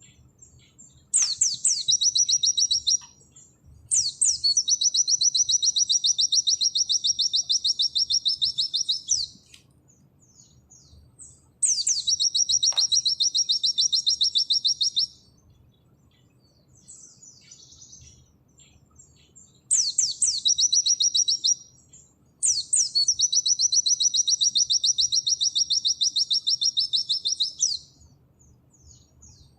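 White-eye (pleci) singing in loud bursts of very rapid, high trills, each lasting from about one and a half to five seconds and separated by short pauses with softer chirps. This is the fast 'nembak' song that keepers use as training material.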